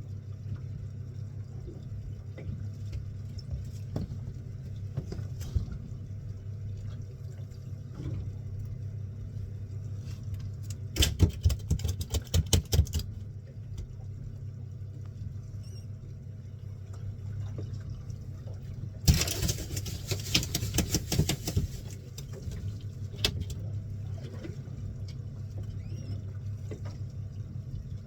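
Fishing boat's engine running steadily with a low hum. Twice, for a couple of seconds each, it is joined by a loud burst of rapid rattling clicks.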